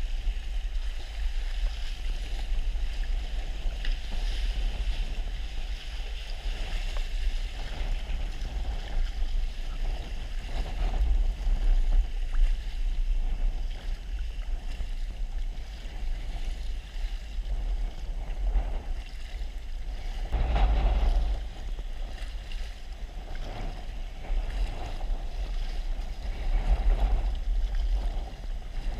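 Wind buffeting the microphone over water sloshing around a kayak at sea, with a louder surge about twenty seconds in.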